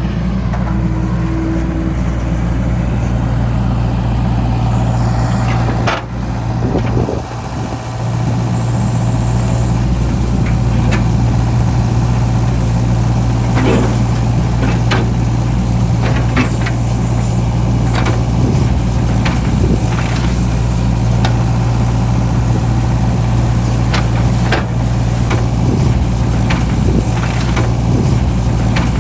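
John Deere 60G mini excavator's diesel engine running steadily, with scattered sharp knocks and clatters over it.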